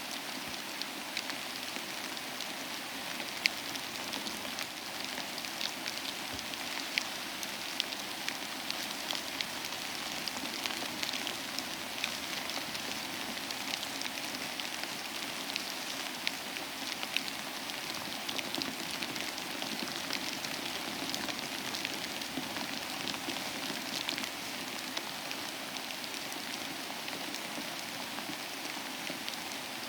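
Steady rainfall, an even hiss of rain with many individual drops ticking sharply close by.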